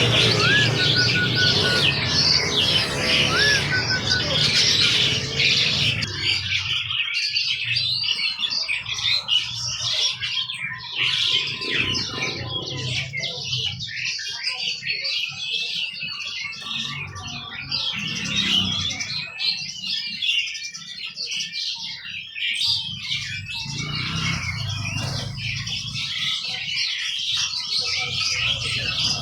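Many caged songbirds chirping and twittering together in a dense, continuous chorus, with squawks mixed in. A low hum underneath fades out about six seconds in.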